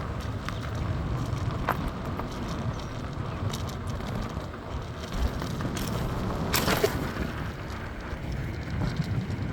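Steady low rumble of wind on the microphone and tyres on the road while riding a bicycle, with a few light clicks and one brief loud rattle about two-thirds of the way through.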